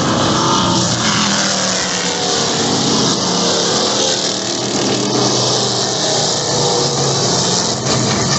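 NASCAR Truck Series race trucks' V8 engines running loudly on the track, several at once, their pitch drifting as they pass, at the slower pace of laps under caution.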